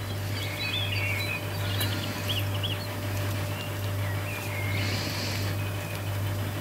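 A small bird chirps and twitters in several short wavy phrases, over a steady low hum.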